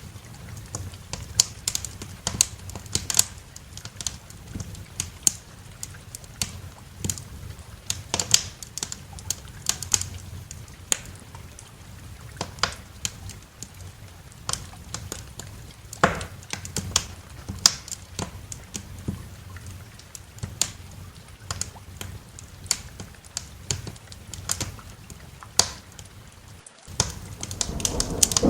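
Wood fire crackling in a fireplace: irregular sharp pops and snaps over a low steady rumble. Near the end the sound cuts out for a moment and heavy rain with thunder comes in.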